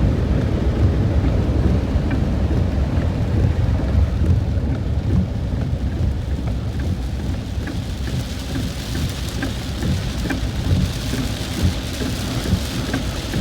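Heavy rain heard from inside a moving car: raindrops ticking on the body and windscreen over a continuous low rumble of the car on the road. A louder hiss joins about eight seconds in.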